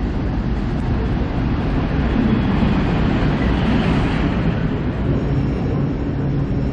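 Train running on the track, a steady loud rumble with a faint low hum.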